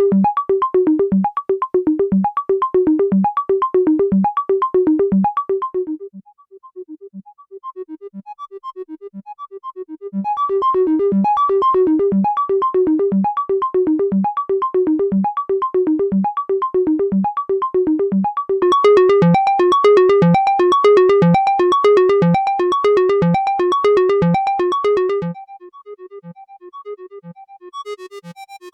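Analog drum synthesizer playing a sequenced pattern of short, pitched, rapidly repeating percussive blips. The pattern drops quieter about six seconds in and returns fuller around ten seconds. A brighter, noisier layer joins around nineteen seconds and cuts out suddenly around twenty-five seconds, leaving a quieter pattern.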